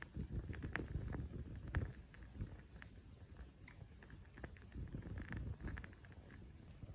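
Burning wood crackling: irregular sharp pops and snaps over a low rumble from the fire.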